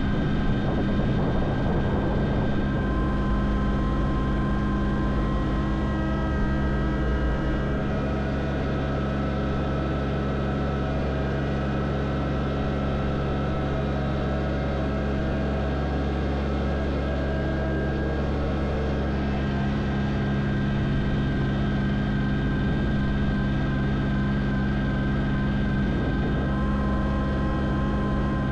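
Tractor engine running steadily, its low note shifting slightly a few times, as with small changes in load or throttle.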